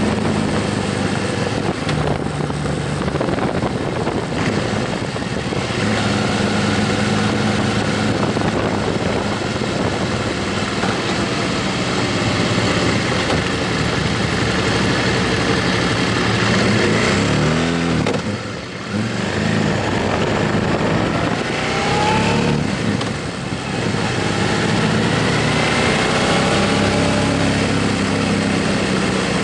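Motorcycle engine running while riding, with heavy wind noise. About two-thirds of the way through, the engine note drops and climbs again, and it dips briefly once more a few seconds later.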